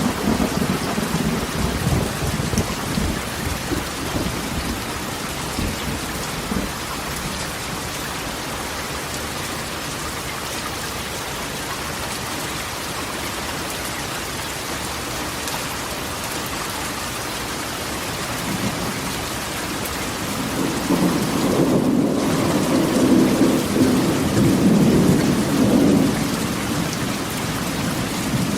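Rain drumming steadily on a corrugated tin roof, an even hiss, with thunder rumbling low at the start and rolling again for several seconds from about twenty seconds in.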